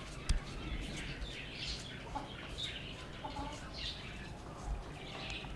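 Small cage birds chirping on and off, with short high calls scattered through, and a single sharp click about a third of a second in.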